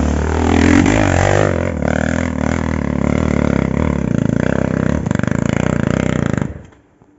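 Motorcycle engine running hard under load on a steep hill climb, then cutting out about six and a half seconds in.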